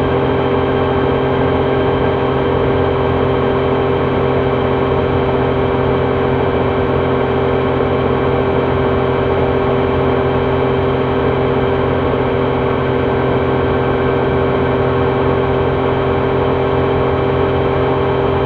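2026 Triumph Trident 660's inline three-cylinder engine running at a steady, unchanging pitch.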